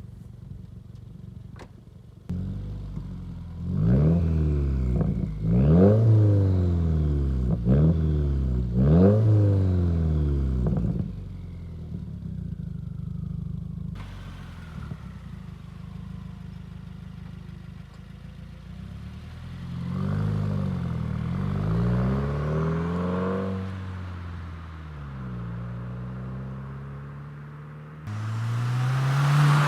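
Subaru WRX turbocharged flat-four running through a Tomei titanium single-exit exhaust: a run of sharp throttle blips, each rising and falling quickly, from about 4 to 11 seconds in, then a steady lower note, more revving around 20 seconds in, and a loud rushing noise near the end.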